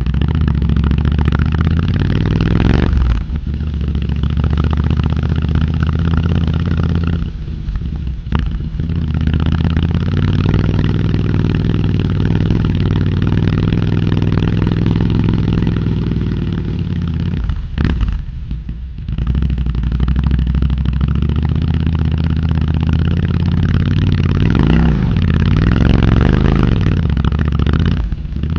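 Royal Enfield Hunter 350's single-cylinder engine running under way, a steady engine note with three brief dips where the throttle eases off, and the pitch rising and falling a few times near the end.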